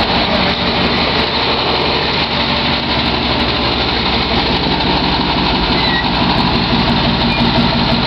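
1994 GMC pickup's engine idling steadily.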